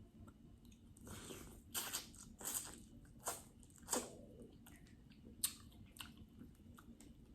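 Crab leg shells being cracked and broken apart by hand while eating, a string of short sharp cracks and crunches with chewing between them.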